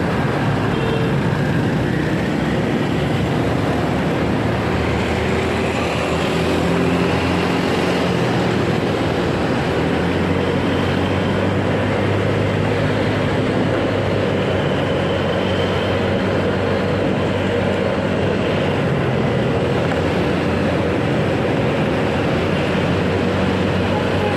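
Motorcycle engine running under way, its pitch shifting a little as the speed changes, with steady wind rumble on the microphone.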